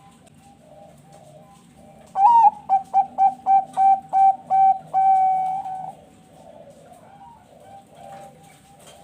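Zebra dove (perkutut bangkok) singing: a loud song that opens with a rising note, runs into about eight short coos, and ends on a longer held note. Other doves coo faintly throughout.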